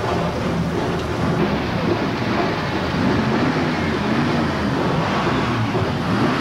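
Engines of classic cars running as they cruise slowly past, under a steady rushing noise, with an engine note that rises and falls from a few seconds in.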